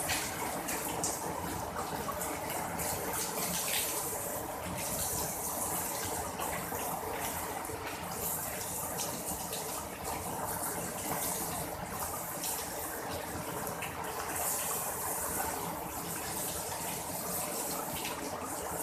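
Heavy downpour: steady rain with running water, with the hiss swelling now and then.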